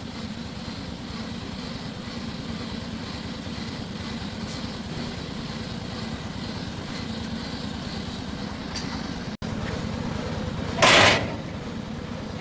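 An engine running steadily, with a brief loud hiss near the end.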